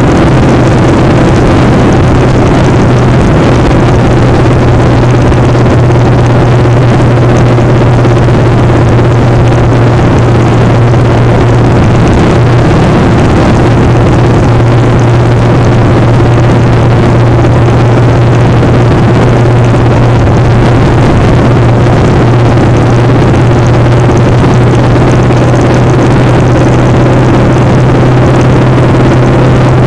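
Motorcycle engine running steadily at an unchanging pitch, with wind rushing over the microphone.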